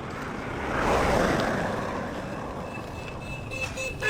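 A motor vehicle passes close by, its noise swelling about a second in and then fading, and a horn beeps briefly near the end.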